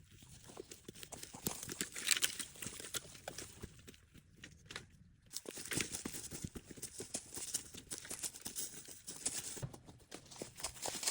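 Burning wood teepee crackling, with many irregular sharp pops over a hiss.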